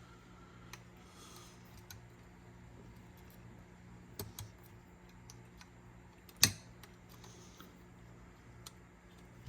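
Scattered light clicks and taps of small parts and tools being handled while reassembling a Sony TC-K777ESII cassette deck's head carriage mechanism, with one sharper click about six and a half seconds in. A faint steady hum runs underneath.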